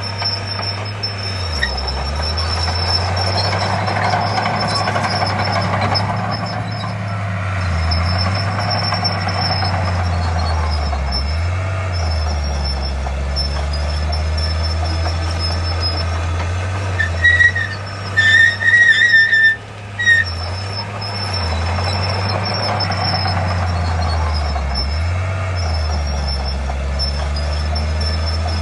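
Heavy diesel earthmoving machinery, a Komatsu D51P bulldozer working with dump trucks, running steadily under load, its engine note dipping and recovering several times, with a thin high whine throughout. About seventeen seconds in, a high-pitched horn sounds in a few short blasts.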